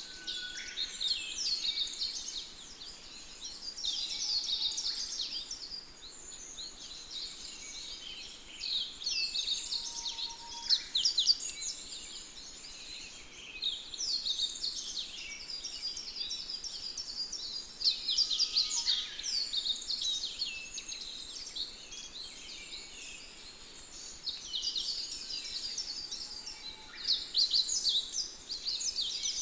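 Many small birds chirping and trilling in a dense, continuous chorus, with a few faint lower whistles now and then.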